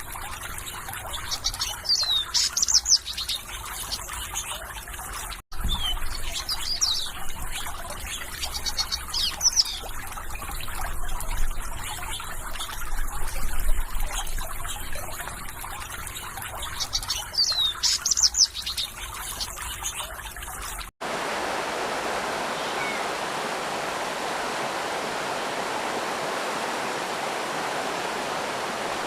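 Water trickling and burbling, with small birds chirping and singing in quick high sweeps over it. About 21 seconds in it cuts abruptly to a steady, even rush of flowing water like a small waterfall, with no birdsong.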